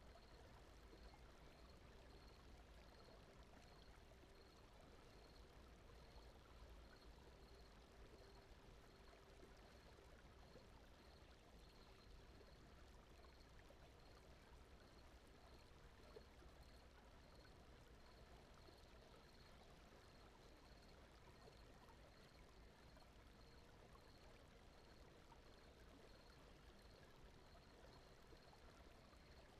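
Very faint, steady brown noise, deep and rushing like distant running water, with a faint high chirp repeating about once a second.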